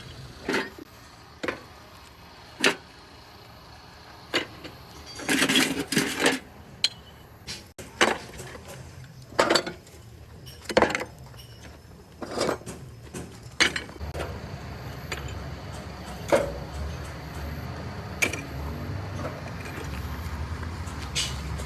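Irregular sharp knocks and clanks of workshop work, one every second or two. A low steady machine hum comes in about two-thirds of the way through.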